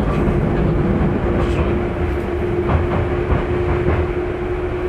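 Tokyu 9000 series electric train running, heard inside a passenger car: a steady low rumble of wheels on rail with a few rail-joint clicks, and a steady hum held from just after the start.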